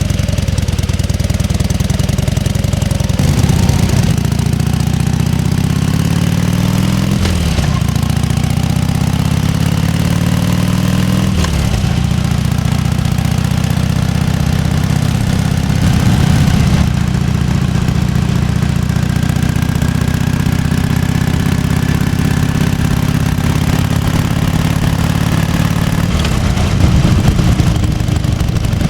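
1998 Harley-Davidson FatBoy's 1340 cc Evolution V-twin idling with its loping potato-potato beat. The engine speed rises and falls a few times, once climbing slowly for several seconds before dropping back sharply.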